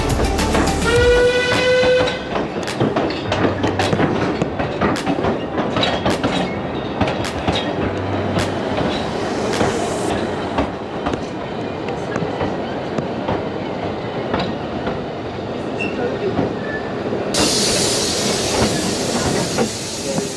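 Narrow-gauge heritage train on the Talyllyn Railway running, its wheels clicking over the rail joints. A short steady whistle sounds about a second in, and a steady hiss starts near the end.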